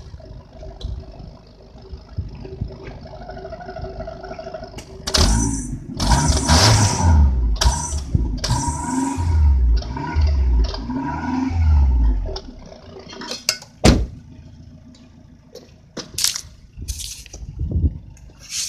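International truck air horn fitted to a Toyota's exhaust, sounded by the engine's exhaust. The engine runs more quietly at first. About five seconds in, the horn blows loudly for about seven seconds in several low pulses. A few sharp clicks follow.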